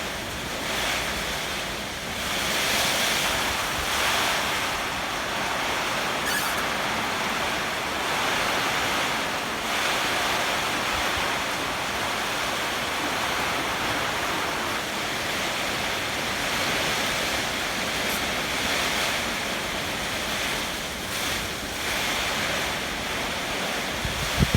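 Heavy typhoon rain with strong gusting wind: a dense, steady hiss that swells and eases every few seconds. A short low thump comes near the end.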